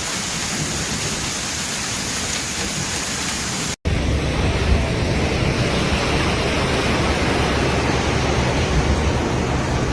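Steady rushing noise of a heavy rainstorm: an even hiss for the first four seconds, then, after a brief cut, a louder and deeper rush.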